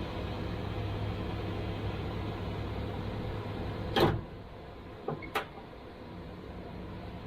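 A steady low mechanical hum cuts off with a loud knock about four seconds in, followed by two light clicks.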